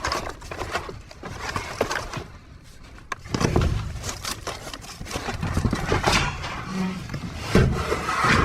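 Debris being shifted around in a dumpster: irregular knocks, clanks and scrapes, with the loudest clatter about three seconds in and again near the end.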